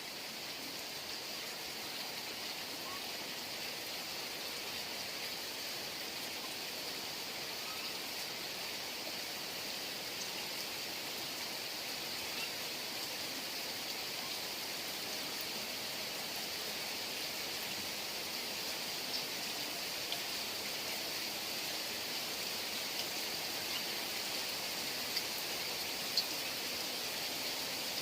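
Heavy rain falling steadily, an even hiss, with a few sharper drops ticking in the second half.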